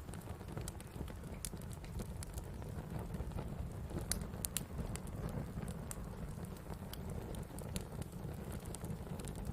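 Wood campfire burning: scattered sharp crackles and pops over a steady low rumble, with a quick cluster of pops about four seconds in.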